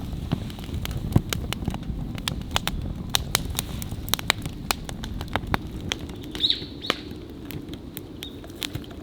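Wood campfire crackling, with irregular sharp pops over a low steady rush. A bird chirps briefly about six and a half seconds in.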